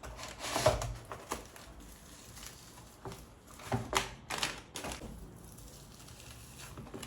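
Plastic bag crinkling and rustling as raw meat is handled into a zip-top bag, in two louder bursts, about half a second in and again around four seconds in, with softer rustling between.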